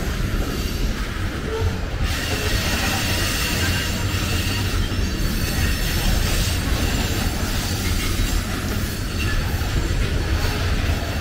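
Covered hopper cars of a freight grain train rolling past: a steady rumble of steel wheels on rail. A faint high wheel squeal rides over it from about two seconds in.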